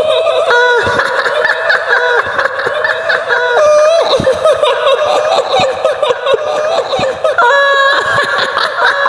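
High-pitched woman's cackling laughter, the eerie laugh of the kuntilanak ghost, running on without pause in wavering, stepped pitches.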